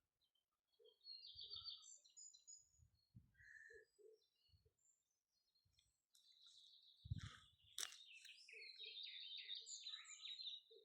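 Faint birdsong: scattered short chirps and trills that come thicker in the second half, with a few low thumps and one sharp click about eight seconds in.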